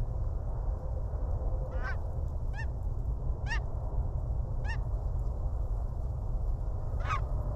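Geese honking: five short calls spaced out, over a steady low rumble of wind on the microphone.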